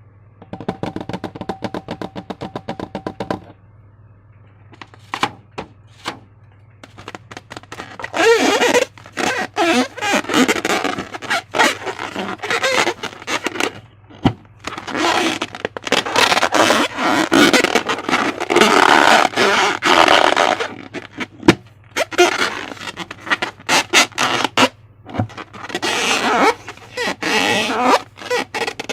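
Slime being squished and worked by hand: wet crackling and popping in long bursts full of small ticks, with sparser clicks between, over a low steady hum.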